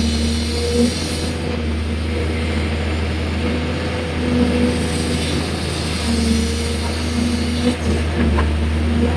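Excavator's diesel engine running steadily, with a whine that comes and goes every second or two as it works.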